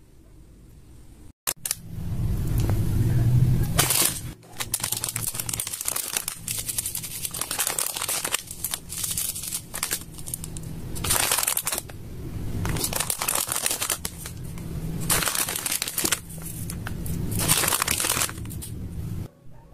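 Hands working slime, crinkling and crackling in irregular bursts with duller low thuds underneath.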